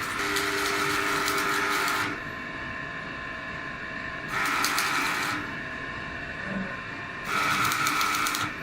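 A machine running steadily, rising three times into louder rasping bursts of one to two seconds each, at the start, about halfway through and near the end.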